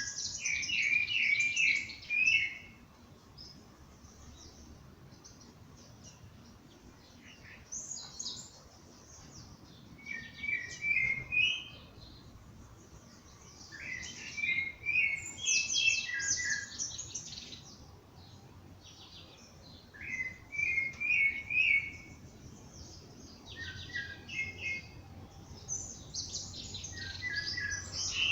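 Songbirds singing at dawn: short, quick phrases of chirping notes, each a second or two long, repeated every few seconds with quiet gaps between.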